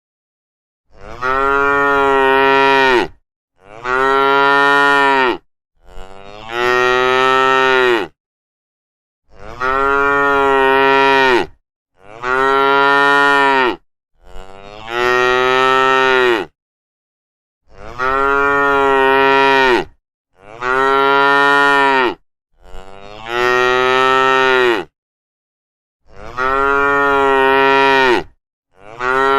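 Cattle mooing: long, drawn-out moos, about eleven in a row, each lasting around two seconds with a brief silent gap between them.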